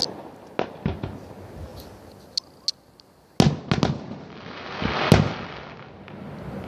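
Fireworks and firecrackers going off: scattered sharp bangs, then a loud bang with a quick run of pops about three and a half seconds in, and a swelling hiss topped by a very sharp bang near five seconds.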